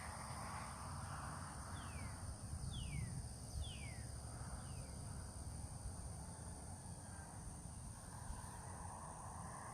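A bird calling: four short notes, each sliding down in pitch, about a second apart, with a steady high-pitched hum behind them.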